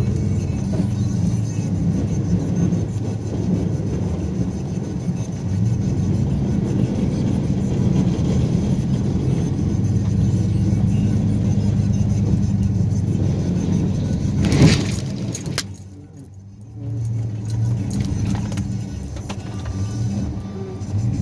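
Snow-plowing vehicle's engine running steadily, with a single loud sharp noise about two-thirds of the way through, after which the sound briefly drops away before the engine drone returns.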